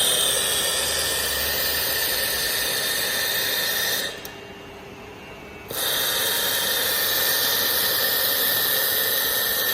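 Robotic laser welder making two weld passes: a loud steady hiss with a high whine in it, which stops about four seconds in and starts again about a second and a half later.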